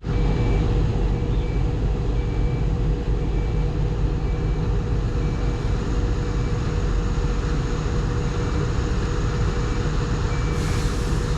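Diesel engine of a New Holland crawler bulldozer running steadily with a heavy low rumble and a steady drone. A faint beep repeats about every three-quarters of a second, and a short hiss comes near the end.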